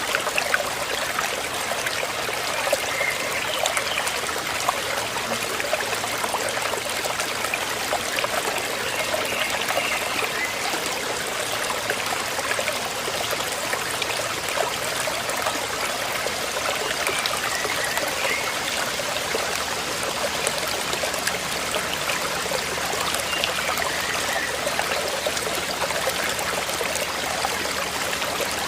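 Flowing river water rushing steadily, a constant even hiss.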